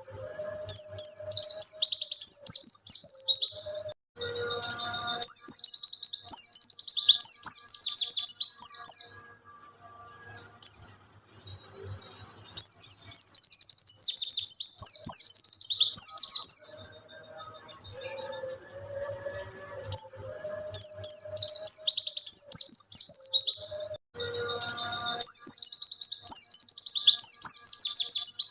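A white-eye (pleci) sings vigorously in five fast, high twittering bouts of about three to four seconds each, separated by short pauses. Fainter, lower calls can be heard in the gaps.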